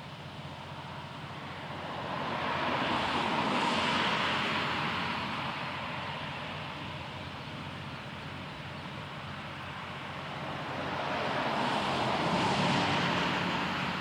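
Two vehicles passing one after the other, a tyre hiss that swells up and fades away, the first about four seconds in and the second near the end, over a steady faint low hum.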